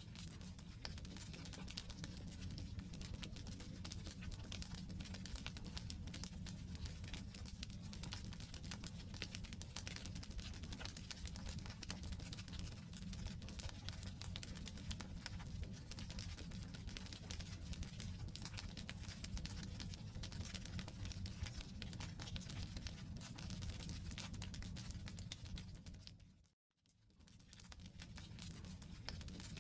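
Firewood burning in a campfire, crackling with many small snaps over a low steady rumble. The sound cuts out to silence for a moment about 26 seconds in, then fades back up.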